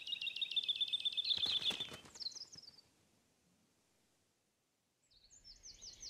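A songbird singing a fast trill of repeated high notes, then a few short falling notes, cutting off about three seconds in. After a silence, quick falling chirps start again near the end.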